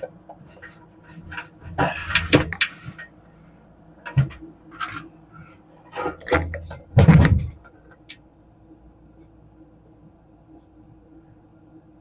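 Irregular clunks and scrapes of a Greenheck rooftop exhaust fan's metal housing being lifted and manhandled back into place, in several bursts over the first seven seconds, then a faint steady hum.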